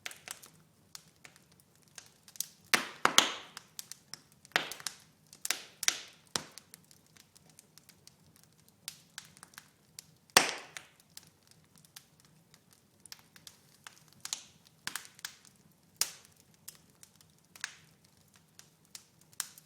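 Wood fire in a fireplace crackling, with irregular sharp pops, the loudest about three seconds and ten seconds in.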